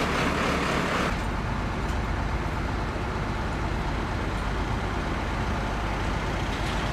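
A heavy vehicle's engine running steadily with a low rumble. About a second in, the sound changes abruptly from a brighter road noise to the steady low rumble.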